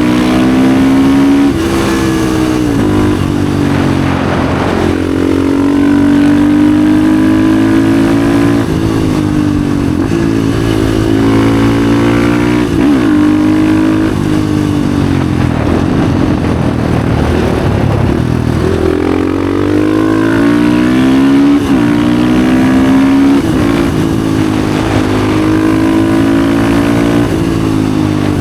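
Husqvarna FE 450's single-cylinder four-stroke engine through an FMF exhaust, ridden hard: it revs up in pitch again and again, then drops away on gear changes and off the throttle for the bends.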